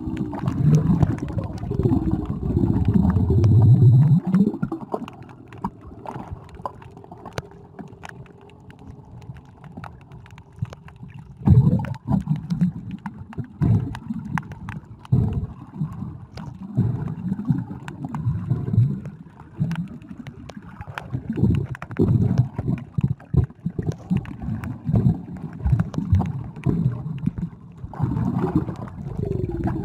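Water gurgling and sloshing around a submerged camera: a muffled, uneven low rumble with faint clicks. It is loud for the first few seconds, drops back for several seconds, then returns in irregular surges from a little before the midpoint.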